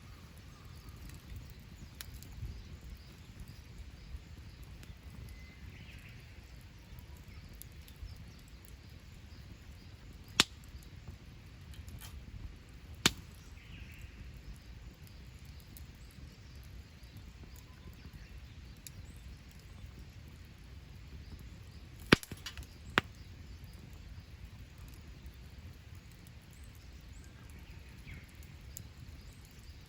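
Wood campfire burning with a steady low rumble, broken by four sharp pops of burning wood: one about ten seconds in, another about three seconds later, and a close pair near the end.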